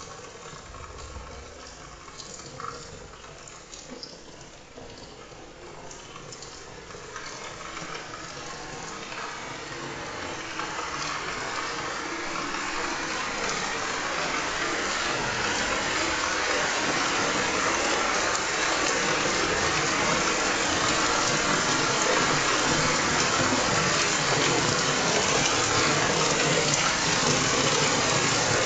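Rain, building from light scattered drops to a steady heavy downpour over about fifteen seconds, then holding steady.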